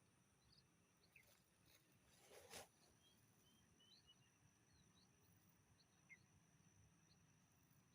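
Near silence: faint outdoor ambience with scattered short bird chirps over a steady high whine, and a brief soft rustle about two and a half seconds in.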